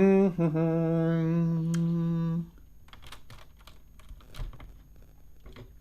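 A man's voice holds one steady hummed note for about two and a half seconds. Then, much quieter, irregular light plastic clicks and clacks as the clamp-brick model's water wheel is turned: loose parts rattling inside the build.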